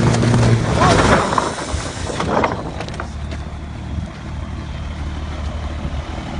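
Truck engine running with a low, steady drone, with people's voices over it for about the first two seconds.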